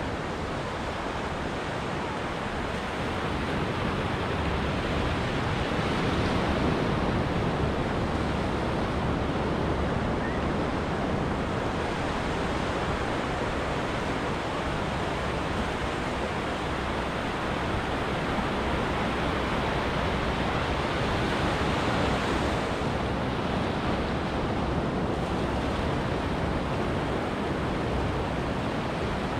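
Ocean waves washing onto a beach: a continuous rush of surf that swells louder a few seconds in and again about two-thirds of the way through.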